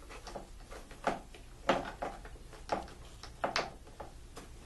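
Several sharp clicks and knocks, about five in under three seconds, as the plastic pump parts of a Bissell ProHeat carpet shampooer are handled and a rubber inner-tube belt is slid onto the pump pulley.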